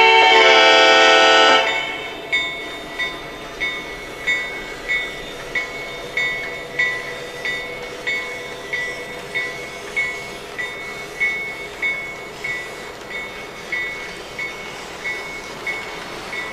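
Onboard sound system of a Lionel Lionmaster New York Central SD90 model diesel locomotive: a loud horn blast that cuts off about a second and a half in, then the locomotive bell ringing steadily, about three strikes every two seconds.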